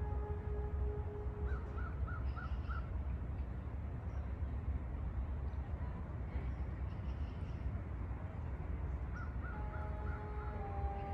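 A bird calling in two quick series of four or five short notes, over a steady low rumble of outdoor ambience. Music fades out near the start and comes back in near the end.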